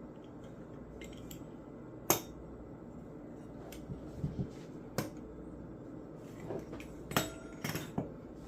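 Scattered kitchen clatter: a few sharp knocks and clinks of utensils and dishes against a counter, the loudest about two seconds in and several more near the end, over a steady low hum.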